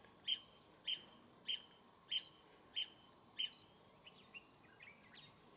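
A bird calling: a short, sharp note repeated about every 0.6 seconds, six times, then fainter, scattered notes over the last two seconds.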